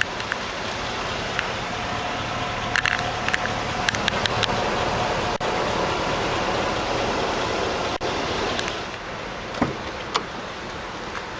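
Hummer H2's 6.2-litre V8 idling steadily, with a few scattered clicks and knocks of handling around it.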